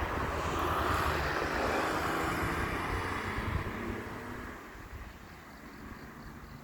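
A road vehicle passing by: its noise swells over the first couple of seconds, then fades away.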